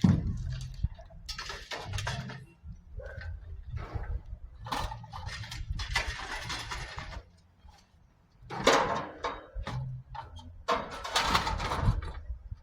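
Scrap metal being shifted and stacked in a truck bed: irregular bursts of clattering and scraping over a low steady rumble.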